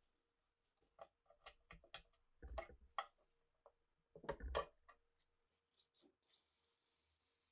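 Faint workshop handling: light clicks and taps of small parts being picked up and set down, with two louder bursts of handling about two and a half and four and a half seconds in, and a faint rubbing hiss near the end.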